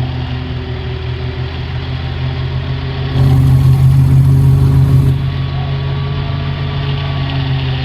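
Ghazi tractor engine running steadily while driving a silage machine. It gets louder and harsher for about two seconds midway, then settles back.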